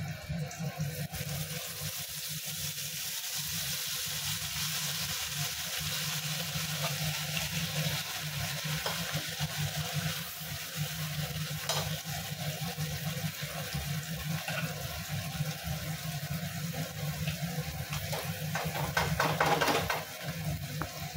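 Ground masala paste of cashews and groundnuts sizzling and hissing steadily as it is added to hot oil in a pan, over a low steady hum. A few knocks come near the end.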